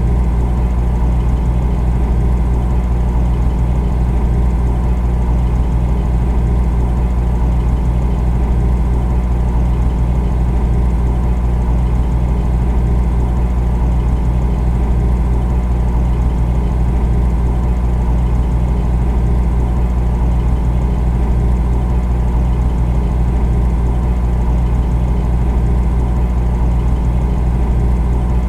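Refrigerator running, a steady low hum with no change.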